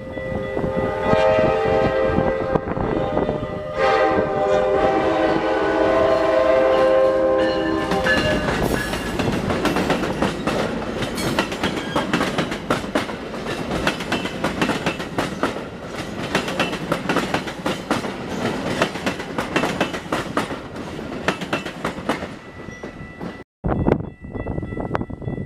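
Train horn sounding two long blasts, the second ending about eight seconds in. The train then passes, its wheels clicking fast over the rail joints, with a brief cut near the end.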